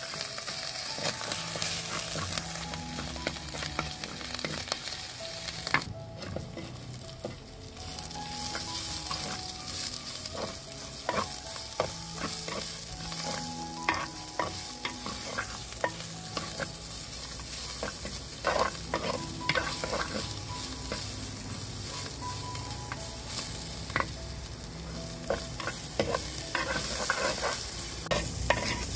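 Garlic, onions and spices frying in coconut oil in a clay pot, sizzling steadily, while a wooden spoon scrapes and knocks against the pot as they are stirred. The sizzle drops away briefly about six seconds in.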